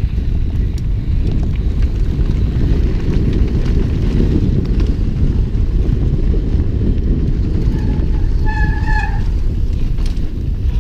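Wind rumbling loudly on a camera's microphone while a mountain bike is ridden downhill, with a short high squeal a little past the middle.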